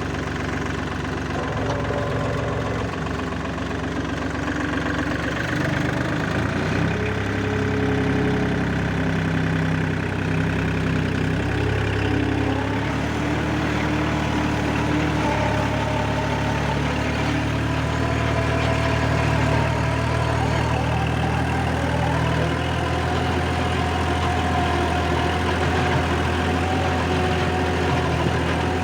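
Four-wheel-drive farm tractor's engine running steadily while it works a rotavator through a field, its pitch shifting slightly in the first half and then holding even.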